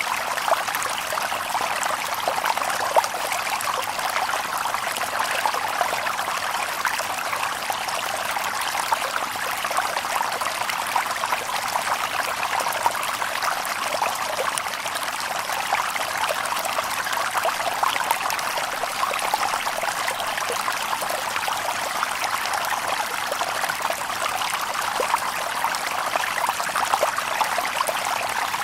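Shallow stream babbling and trickling over stones, a steady splashing with no birds.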